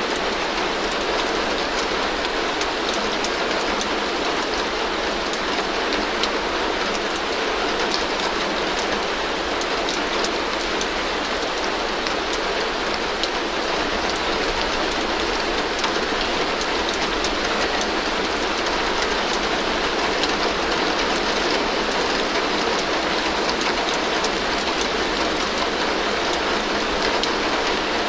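Heavy rain falling steadily on a tin roof: an even hiss of rain with many small sharp drop ticks, the same all the way through.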